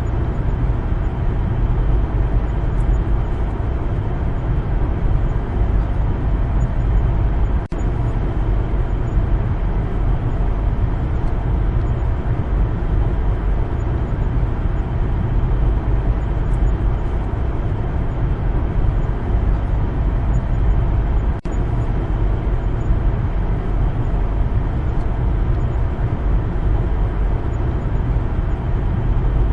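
Steady road noise of a car driving: a constant low rumble of tyres and engine, with two split-second dropouts, one about a third of the way in and one about two-thirds in.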